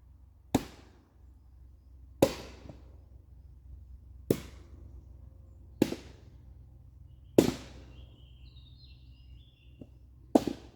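Firewood work: six loud, sharp wooden knocks a second or two apart, each with a short ringing tail, over a low steady hum.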